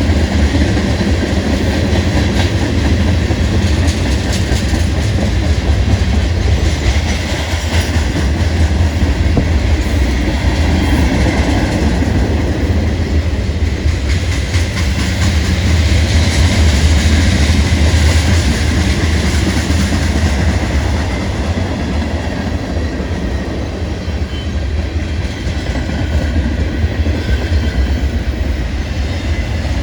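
A long manifest freight train rolling past at close range: a steady, loud rumble of freight cars with wheels clattering over the rail.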